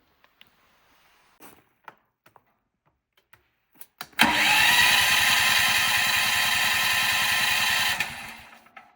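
Electric starter cranking a 13,000-watt tri-fuel generator's engine for about four seconds with a fast, even pulse, without catching. It cuts off suddenly and winds down.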